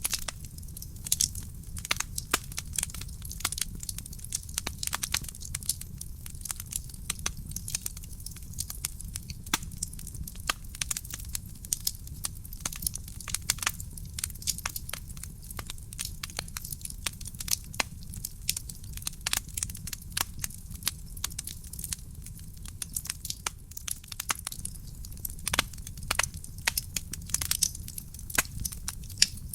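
Wood fire burning in a fireplace, crackling steadily with many sharp snaps and pops over a low rumble of flame.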